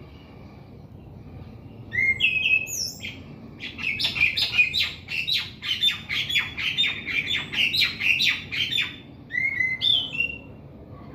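Orange-headed thrush (anis kembang) singing. About two seconds in come a couple of whistled, upward-sliding phrases, then a long, fast, jumbled run of notes for about five seconds, closing with two more whistled phrases.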